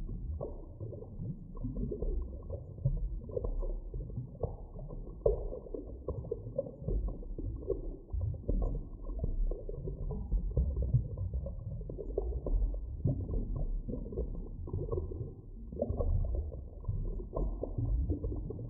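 Muffled underwater ambience: a constant deep rumble with irregular soft pops and gurgles, all dull and low with no high sound at all.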